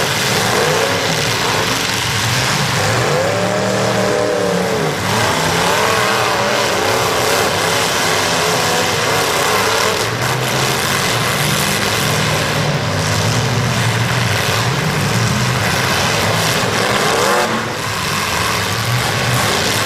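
Demolition derby cars' engines revving and running together, their pitch repeatedly rising and falling over a dense, loud din.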